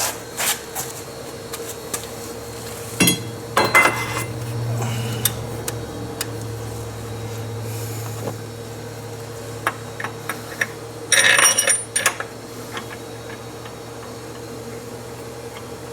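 Metal hand tools and parts clinking and clanking in short clusters, with scattered single clicks, over a steady low hum.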